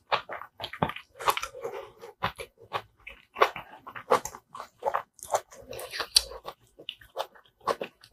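Close-miked chewing of rice and spicy braised kimchi: a quick, irregular run of short mouth clicks.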